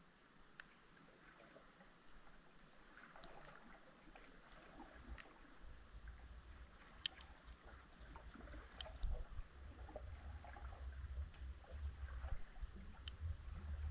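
Underwater recording from a submerged camera: scattered faint clicks and ticks over a low rumble that grows stronger from about eight seconds in.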